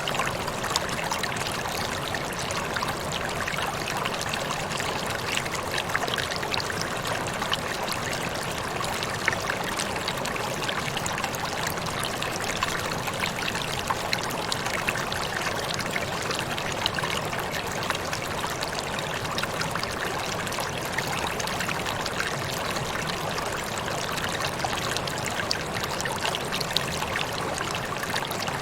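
Waterfall: water falling and splashing in a steady rush, flecked with many small, irregular splashes and droplet ticks.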